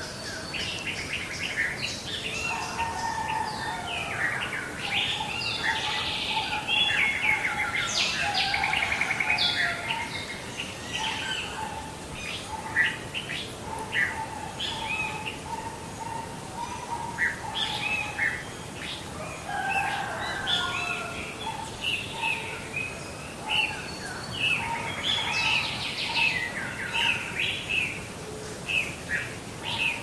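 Several songbirds singing together: many short chirps and quick trills overlapping, with a lower repeated note running beneath for much of the time.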